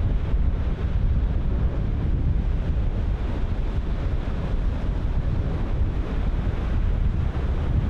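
Ocean surf breaking continuously, with heavy wind buffeting the microphone as a steady low rumble.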